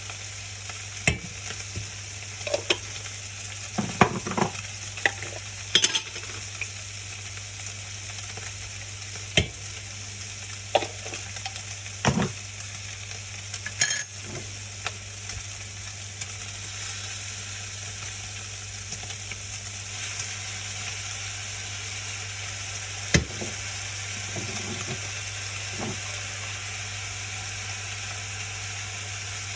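Food sizzling steadily in a frying pan while it is stirred, a utensil knocking against the pan every second or so through the first half and once more near the end. A steady low hum runs underneath.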